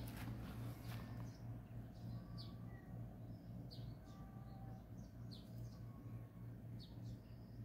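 Faint birdsong: a short, high, falling chirp repeated about once a second, with a few softer notes lower down, over a steady low hum.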